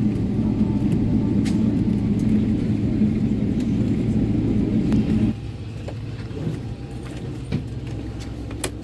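Steady low rumble of airliner cabin noise in a Boeing 777-300 on the ground after landing. It cuts off abruptly about five seconds in, giving way to a much quieter background with a few light clicks and knocks.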